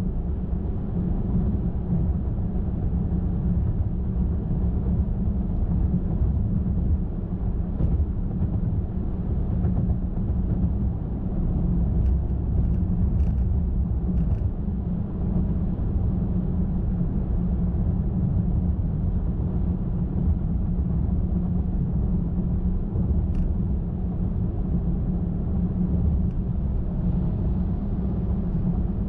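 Car driving at highway speed: a steady low rumble of tyres on the road and engine, with a few faint ticks around the middle.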